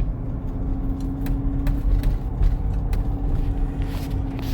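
C7 Corvette's 6.2-litre V8 running steadily as the car drives slowly, a low rumble with a steady hum and a few light clicks or knocks.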